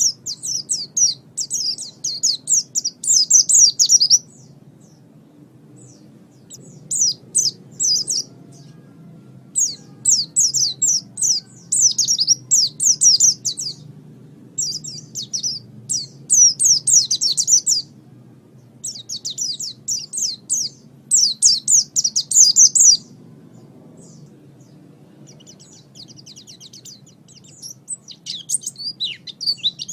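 A pleci (white-eye, Zosterops) singing in rapid, high-pitched twittering phrases of a few seconds each, with short pauses between, over a faint low hum.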